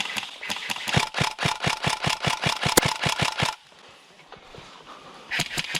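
Airsoft rifle firing on full auto: a rapid string of sharp shots, about eight a second, that stops about three and a half seconds in and starts again near the end.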